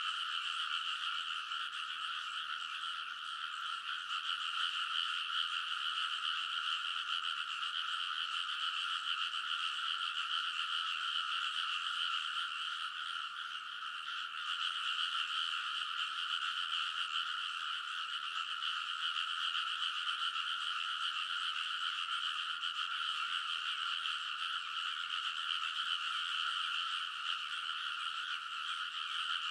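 A dense chorus of many frogs calling together in a rice paddy: continuous, overlapping croaking with no breaks.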